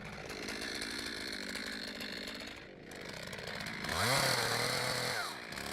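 Chainsaw running steadily, then revving up about four seconds in and dropping back near the end, as it works a plunge (bore) cut into the heart of a large trunk.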